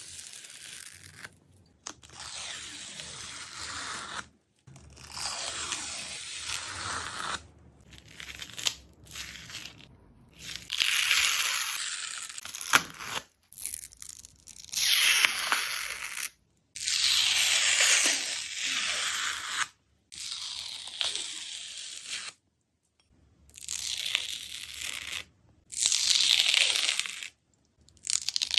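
Dried skin on a slime being torn and peeled, a crackly hissing tear that comes in stretches of one to three seconds with short silent breaks between them.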